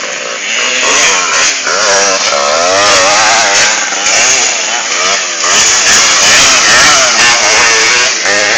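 Motocross bike engines racing at high revs, the pitch climbing and dropping again and again as the throttle is worked and gears change.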